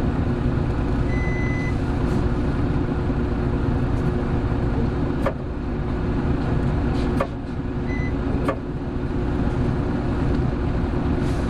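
Hino Blue Ribbon City Hybrid bus (BJG-HU8JLFP) under way, its engine drone steady. Three sharp clicks come about 5, 7 and 8.5 seconds in, each with a brief dip in the engine sound. A short high beep sounds twice, once near the start and once about 8 seconds in.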